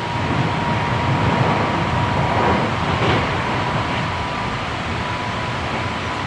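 Interior running noise of a Hankyu 7300 series commuter train travelling at speed: a steady rumble of wheels on rails and car body noise, with a thin, steady high tone running throughout.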